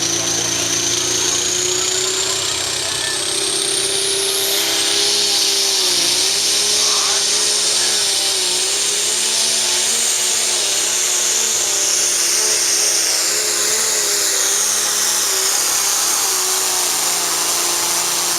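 Turbocharged super stock pulling tractor engine at full throttle under load. A high turbo whine climbs steeply over the first few seconds, then the engine note holds high with its pitch wobbling up and down in quick waves.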